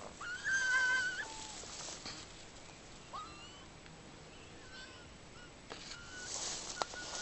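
Raccoon dogs quarrelling, giving high-pitched whining, mewing calls: one long whine shortly after the start, then several shorter, fainter calls, with hissing near the end.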